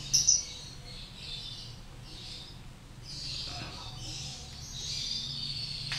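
Lovebird chicks giving high-pitched calls in repeated bursts, about one a second, while being handled. Two loud short sounds come right at the start.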